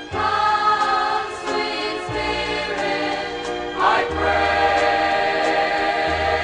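Voices singing a gospel song in harmony over musical accompaniment, with long held notes and low bass notes changing about every two seconds.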